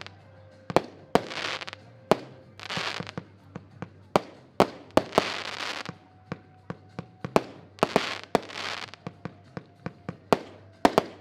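Diamond Titan consumer fireworks battery (75 shots) firing: a rapid, irregular series of sharp bangs, several a second at times, with hissing rushes between them.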